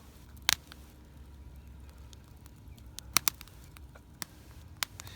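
A few sharp, scattered clicks over a low steady hum.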